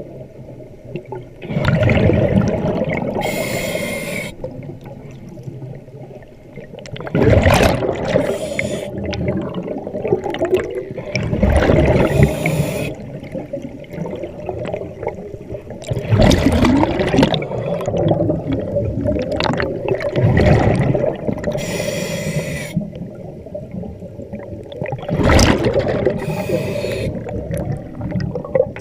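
Scuba diver breathing through a regulator underwater: a cycle repeating every four to five seconds, each inhale a short hiss and each exhale a rush of bubbles.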